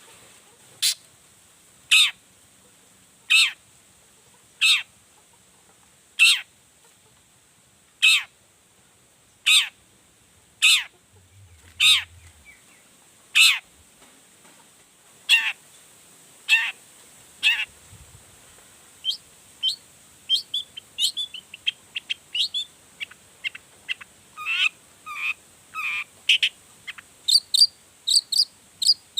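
Long-tailed shrike (cendet) singing: a series of harsh, downward-sweeping calls about one every second and a half, then, about 19 seconds in, a faster run of short, varied chattering notes.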